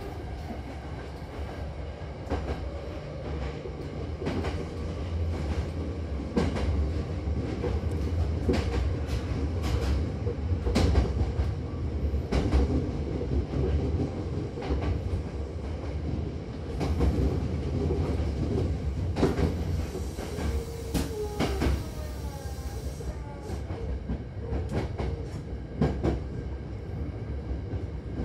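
Hankyu electric train running, heard from inside the car: a steady low rumble with sharp clicks of the wheels over rail joints, and brief wavering squeals about twenty seconds in, typical of wheels on a curve.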